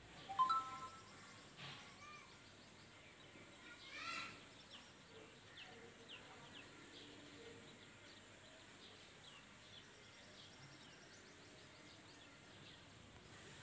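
Faint rural outdoor background with birds calling: a clear pitched call about half a second in, another about four seconds in, then scattered short high chirps for several seconds.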